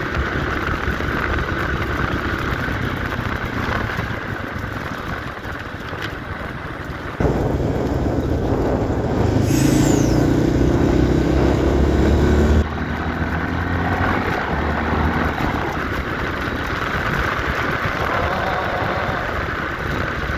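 A 1990 Yamaha XT350 single-cylinder four-stroke engine running steadily while riding, with wind noise. About seven seconds in, the sound turns abruptly louder and heavier for about five seconds, with a brief high falling whistle in the middle, then drops back.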